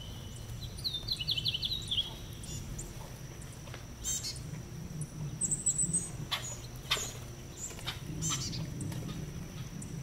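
Birds chirping outdoors in short, repeated calls, over a steady thin high tone and a low background rumble.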